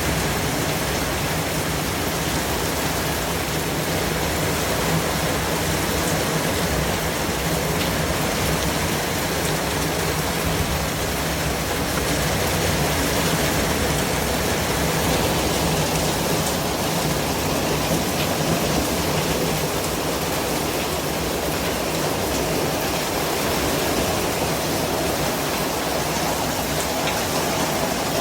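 Steady white noise: an even, rushing hiss that holds without change.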